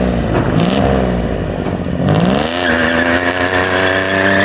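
A vehicle engine revving in short blips, then climbing about two seconds in and holding at high revs for a burnout, with the spinning tyres squealing over it.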